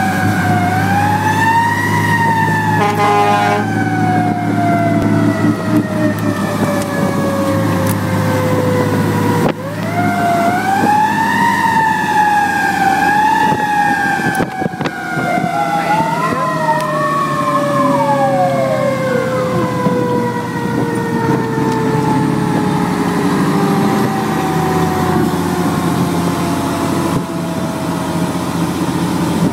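Fire engine siren wailing in long glides: it rises, then falls slowly over several seconds, twice, with a second wavering siren tone briefly over it near the middle. The truck's engine runs steadily underneath.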